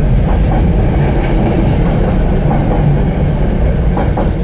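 Metro-North passenger train hauled by a P32 locomotive, rolling out of the station: a steady low rumble with scattered wheel clicks over the rail joints.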